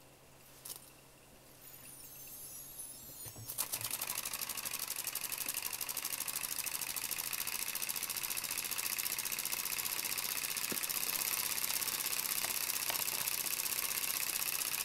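Gakken Otona no Kagaku V-twin model steam engine: a hiss rises, then about three and a half seconds in the engine starts running with a fast, steady, rhythmic chuffing that carries on.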